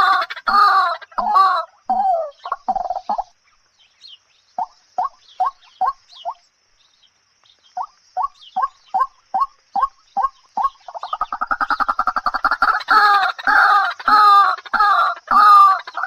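Chicken clucking in runs of short repeated calls, a few a second, with two brief pauses in the first half. About eleven seconds in comes a fast rattling trill, then louder clucking.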